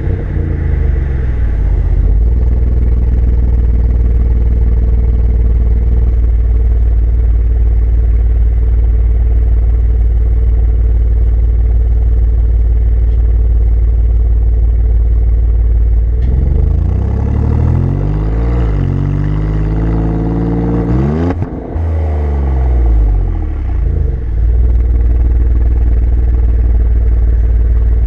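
Alfa Romeo Giulia Quadrifoglio's twin-turbo V6 exhaust, heard close up from the rear bumper, running steadily at cruise. About two-thirds of the way in, the engine pulls harder: the pitch climbs and drops twice through gear changes, with a brief dip at the second shift. It then settles back to a steady run.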